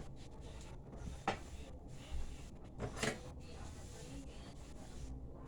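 A few light knocks and clatters of kitchen things being handled or set down, about three in all, over low room noise.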